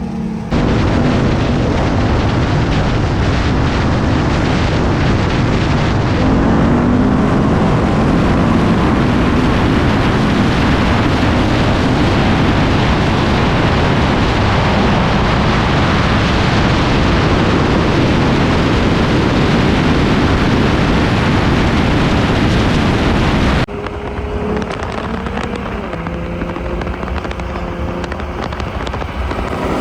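Loud, steady roar of wind and road noise from a car travelling at high speed. It cuts off suddenly about 24 seconds in, giving way to a quieter car engine running with a steady hum that rises briefly near the end.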